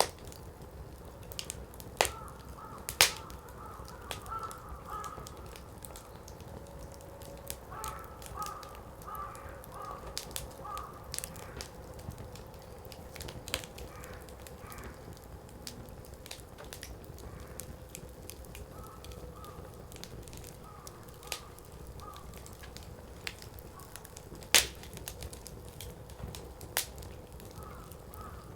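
Wood fire burning in a fire pit, crackling, with a few loud, sharp pops of the burning firewood spread through the stretch.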